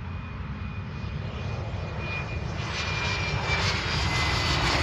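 Bombardier Challenger business jet on approach, its turbofan engines growing steadily louder as it nears, a thin high whine over a low rumble.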